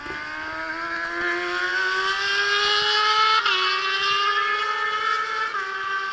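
Racing motorcycle engine accelerating hard, its pitch climbing, with two upshifts where the pitch drops sharply, about three and a half seconds in and again near the end.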